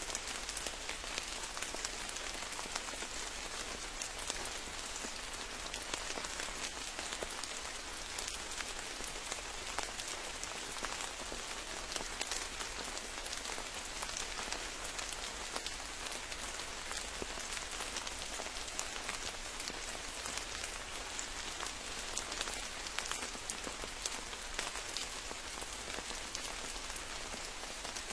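Steady rain falling, a continuous hiss with many separate drops ticking close by.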